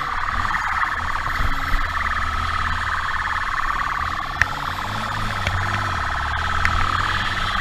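Police siren sounding with a fast warble over the low running of a vehicle engine. A single sharp click about four and a half seconds in.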